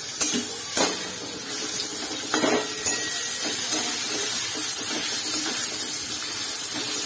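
Sliced onions, garlic and tomato sizzling in hot oil in a metal wok, with a metal spatula scraping and knocking against the pan a few times.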